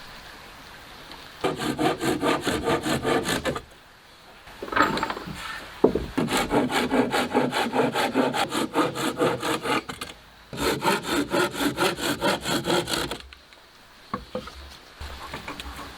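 Hand saw cutting through wood in quick, even strokes, about four a second, in three bouts with short pauses between them.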